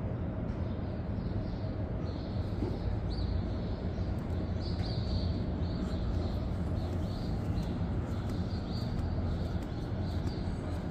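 Small birds chirping: many short, high chirps in quick succession over a steady low background rumble.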